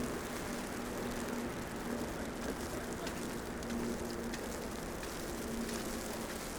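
Steady city street ambience in falling snow: an even wash of traffic and wet-street noise with a low hum that fades in and out.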